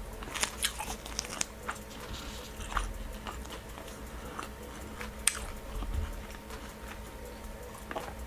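Mouth sounds of someone chewing chapati and chicken stew, with many small irregular clicks and one sharper click about five seconds in.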